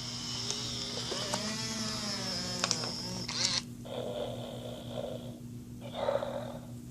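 FurReal Friends Biscuit robotic toy dog playing its sleep sounds through its built-in speaker. First comes a long high-pitched whine that bends up and down, then two snores.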